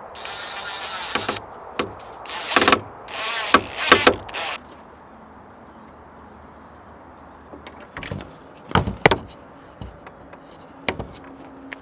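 A small power tool's motor whirring in three short bursts over the first four and a half seconds, then a few sharp knocks of wood or metal near the end.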